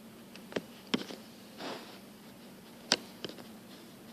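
Quiet room with a few sharp clicks and taps of handling noise on a handheld camera, and a soft rustle about halfway through.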